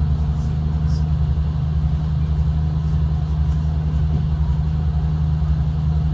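Steady low drone of a V/Line diesel train heard from inside the carriage: an even engine hum with no change in pitch.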